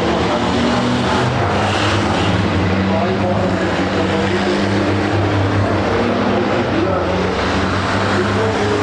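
Race trucks' diesel engines running in a steady, loud drone, with several engine notes overlapping.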